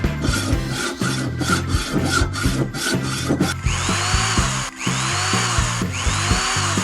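Cartoon sound effects of rasping, sawing-like strokes, about three a second for a few seconds, then three longer sweeping swishes, over background music.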